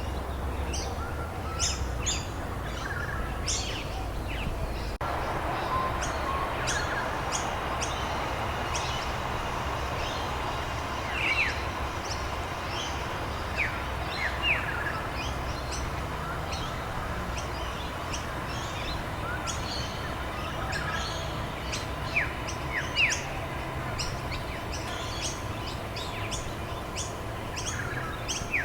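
Many birds chirping and calling in short notes over a steady hiss of rain. The background hiss changes abruptly about five seconds in.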